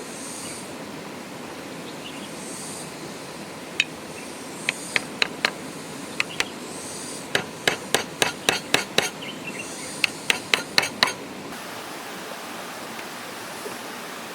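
A hammer taps on wood, sharp and irregular, in quick runs of up to about three or four strikes a second, over a steady background hiss.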